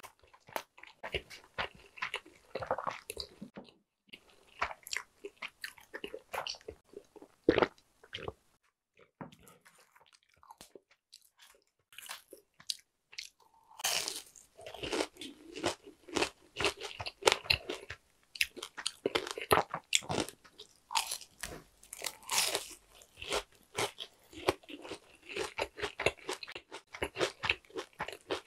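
Eating sounds: chewing, then from about halfway a steady run of loud, crisp crunches as a battered fried jumbo shrimp is bitten and chewed.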